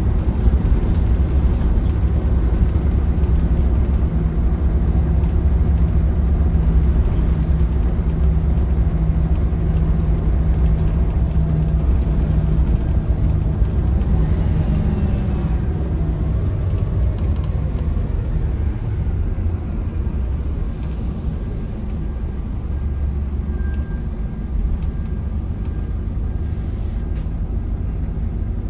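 Onboard sound of a Scania L94UB bus under way: its Scania DC9 five-cylinder diesel running steadily with road rumble. About halfway through, the engine note changes pitch, and it eases off a little after about two-thirds of the way through.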